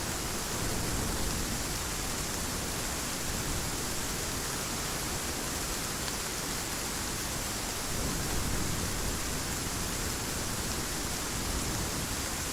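Heavy rain falling steadily, an even hiss that swells slightly a couple of times.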